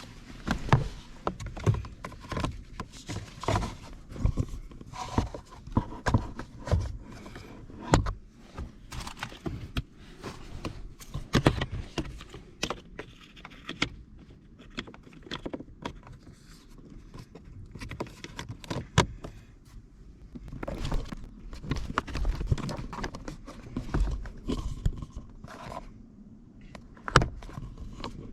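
Irregular clicks, knocks and scrapes of parts being handled during hands-on work, with no steady machine sound.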